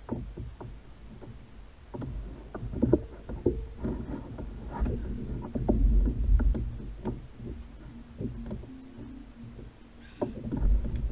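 Irregular knocks and clunks on a kayak, like gear handled against the hull, over a low rumble of water and wind.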